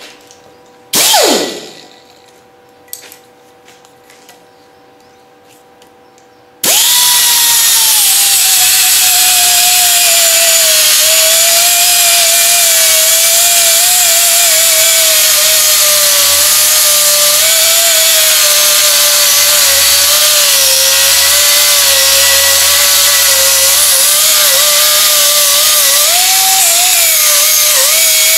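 Angle grinder with a flap disc cleaning up freshly drilled holes in steel. About a second in it is blipped on briefly and spins down, and after a few small knocks it starts and runs continuously. Its whine drops in pitch and wavers as the disc is pressed onto the metal.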